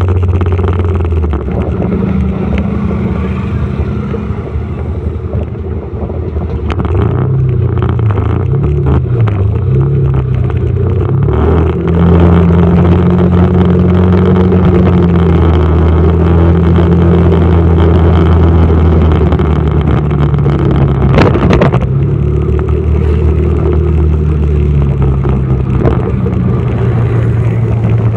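Motorcycle engine running under way, its note dipping and wavering as the speed changes in the first part, then steadier and louder for the rest. One sharp click about three-quarters of the way through.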